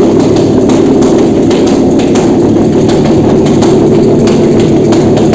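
Nissan VQ35DE 3.5-litre V6 engine idling steadily during a bench run on a test stand.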